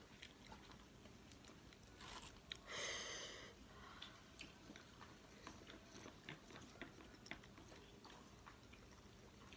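Faint close-up eating sounds: soft chewing and scattered small clicks from picking through a plate of pasta by hand, with a brief breathy rush about three seconds in.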